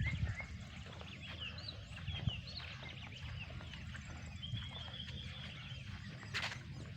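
Many birds chirping, with short rising and falling chirps and a longer trill a little past halfway, over a steady low rumble. There is a brief burst of noise near the end.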